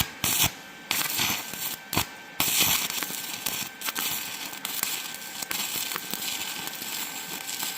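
Stick-welding arc from an ESAB 180i Pro inverter welder burning a 2.5 mm basic electrode at 60 A on 2 mm box-section steel. It sputters on and off several times in the first two seconds, then settles into a steady crackle as the straight bead is run.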